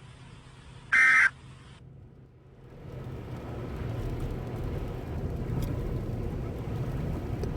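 A truck's warning chime beeps once about a second in, then the low noise of the engine and tyres on the road builds steadily as the truck picks up speed.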